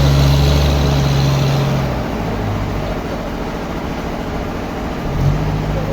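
Engine or machine motor running steadily with a low hum, louder for the first two seconds and again from about five seconds in.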